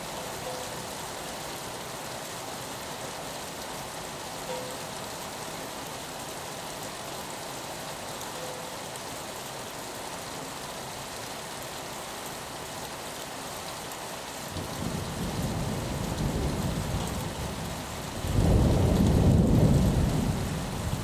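Steady rain on a window, an even hiss, with rolling thunder coming in about two-thirds of the way through as a low rumble that grows louder near the end.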